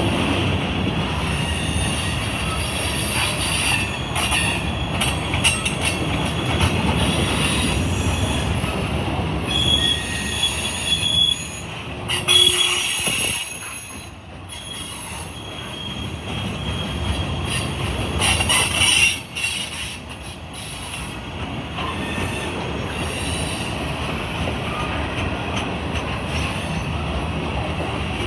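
A freight train's cars rolling past, with a steady rumble of steel wheels on rail and short high-pitched wheel squeals now and then, clearest a third of the way in and again about two-thirds through.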